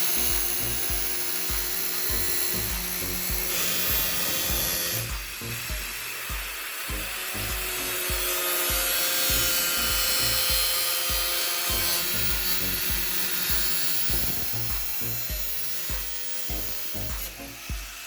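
Wood being worked with a hand tool, a rough rubbing, sawing-like noise, over background music with a steady beat.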